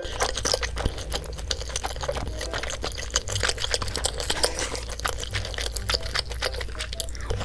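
Close-miked eating sounds: rapid wet clicks and smacks of food being chewed and slurped, over a steady low hum.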